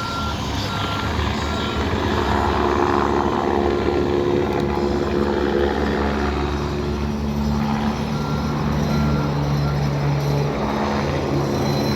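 A vehicle's reversing beeper sounds in short, evenly spaced beeps at the start and again near the end, over a steady engine hum that swells for a couple of seconds early on.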